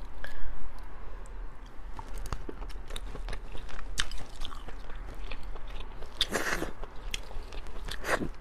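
Close-miked eating of a spicy shell-on shrimp: crisp clicks of shell cracking and biting, with chewing, and two louder crunchy bursts about six and eight seconds in.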